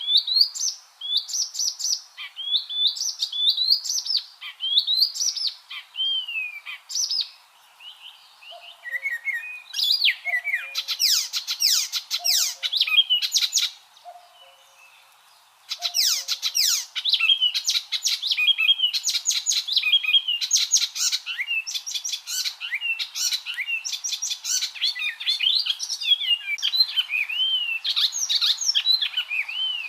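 Icterine warbler singing: a fast, varied song of whistled up-and-down glides mixed with rapid chattering notes, with a short pause about halfway through.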